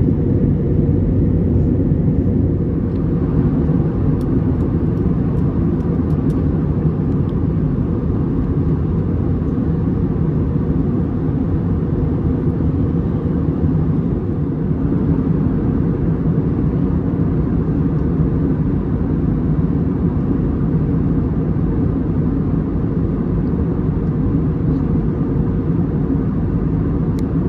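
Steady cabin noise of an Airbus A320neo in climb: a constant low drone of engines and airflow, with a little more hiss in the middle range from about three seconds in.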